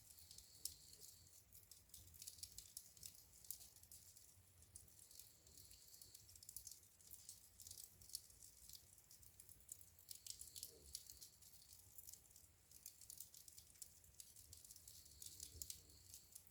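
Wood fire burning in a fireplace, crackling faintly: many small irregular snaps and pops over a low steady rumble.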